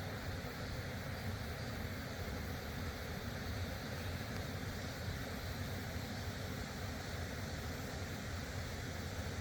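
Steady rushing of fast-flowing water from a stream or river, loud and unbroken.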